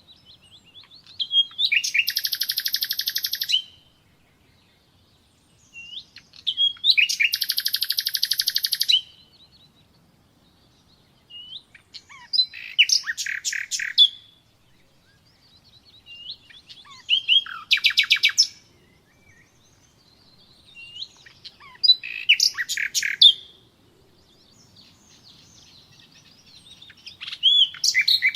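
Nightingale singing: six separate phrases about five seconds apart, each one to two seconds of rapid trills and fast rattling runs of repeated notes, with short rising whistles in between.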